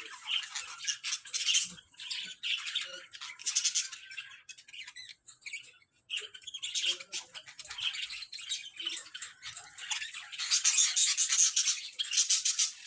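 Budgerigar chattering and warbling in quick, high-pitched squawks and chirps, growing denser and louder near the end.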